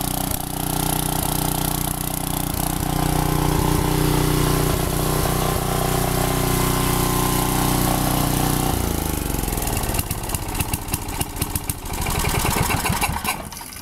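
Briggs and Stratton 10 hp generator engine running at a steady speed, then winding down with falling pitch about nine seconds in. Irregular clicks and knocks follow for a few seconds.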